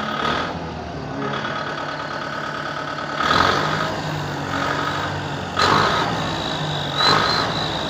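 Kubota MU5501 tractor's four-cylinder diesel engine running at idle and revved up three times in short bursts, through an exhaust fitted with a clip-on turbo whistle that still needs adjusting before it whistles properly.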